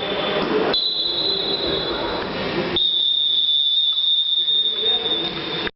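A long, high-pitched steady whistling tone over a background murmur of voices. It starts as two close tones, changes about three seconds in to a single steady tone, and cuts off abruptly at the end.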